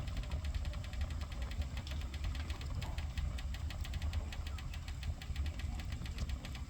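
Wood fire burning, crackling with a dense run of small sharp pops over a steady low rumble; the pops grow thicker about halfway through.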